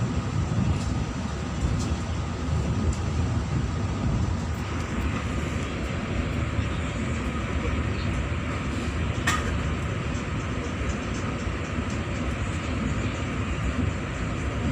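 Departing passenger train rolling past: a steady low rumble of wheels and running gear on the rails, with a single sharp clank about nine seconds in.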